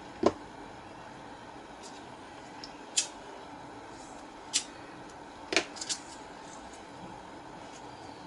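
A handful of short, sharp clicks and snips from small hand tools handling wire on a fan motor being rewound: one about a second in, then at irregular gaps, with a quick cluster of three just past the middle. Under them runs a steady low hum.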